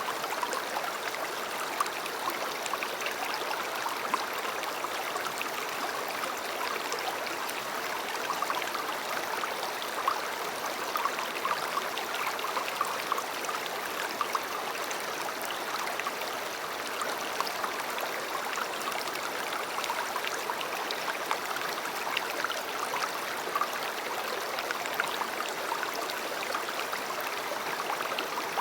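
River water running steadily: a constant rushing babble, peppered with many small splashes.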